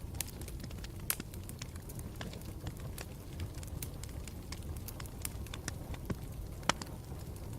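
Campfire crackling: a steady low rumble of burning wood with scattered sharp pops and snaps, the loudest about a second in and near the end.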